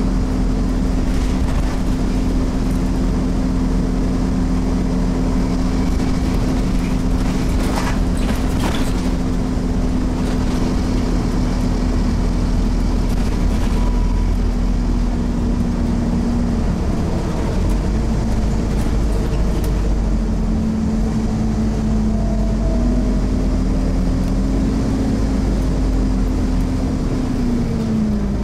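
Scania OmniCity bus's 9-litre five-cylinder diesel running under way, heard on board: a steady low drone with a whine over it. There is a brief rattle about eight seconds in, the pitch shifts after the middle, and the whine falls near the end as the bus slows.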